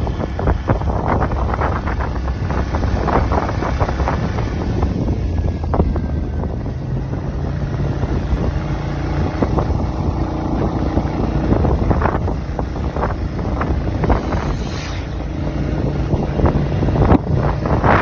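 Kymco AK550 maxi-scooter being ridden, its engine note showing through heavy wind buffeting on the microphone.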